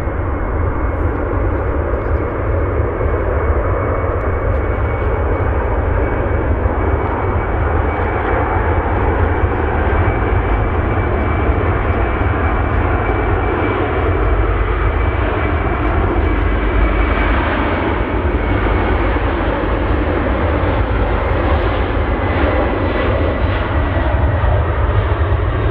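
Jet airliner engines running loud and steady, with a thin high whine that slowly drops in pitch.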